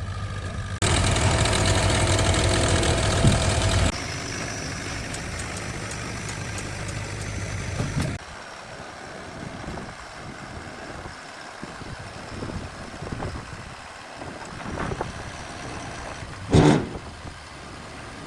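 Flatbed tow truck's engine running, much louder for about three seconds near the start, then settling to a lower, steady run and fading quieter about halfway through. A single loud knock comes near the end.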